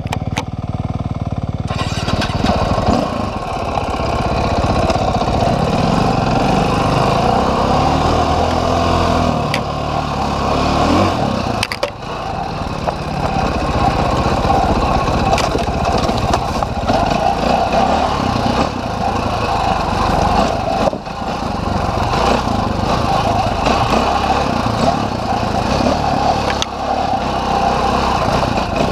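Dirt bike engine running under load on a trail, its pitch rising and falling as the throttle opens and closes.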